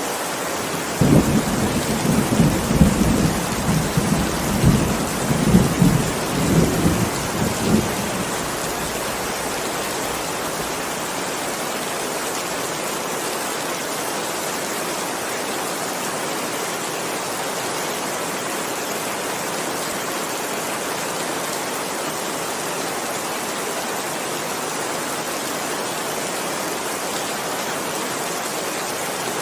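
Steady heavy rain, with a roll of thunder rumbling low in several pulses about a second in and dying away after about seven seconds.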